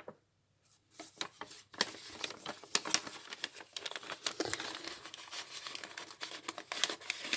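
Paper rustling and crinkling with many small, sharp crackles, starting about a second in, as the pages and journaling paper of a handmade junk journal are handled.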